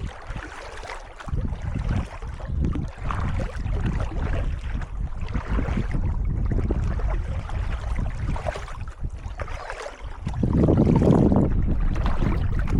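Kayak paddle strokes dipping and splashing in calm water, with wind rumbling on the microphone; a louder rush comes about ten and a half seconds in.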